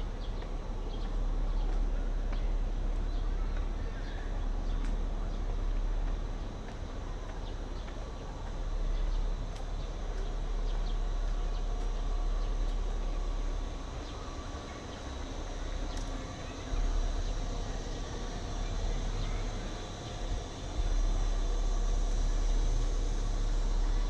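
Steady outdoor ambience of a city park, carried by a low rumble that swells and dips, as of distant city traffic, with a few faint clicks.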